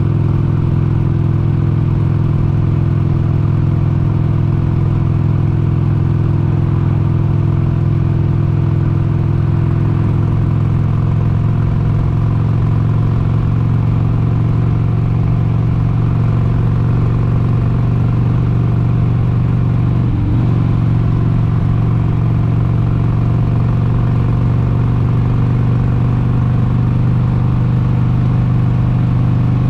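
1996 Harley-Davidson XLH883 Sportster's air-cooled 883 cc Evolution V-twin running steadily at cruising speed on the move, with a brief dip in pitch about two-thirds of the way through before it settles back.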